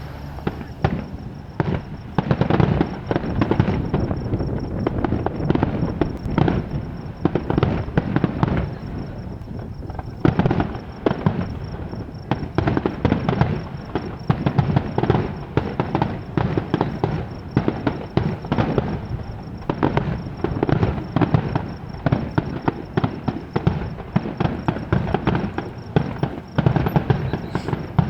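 Fireworks display in a non-stop barrage: shells bursting in rapid succession, bangs and crackles overlapping with hardly a gap, the finale as the watchers take it.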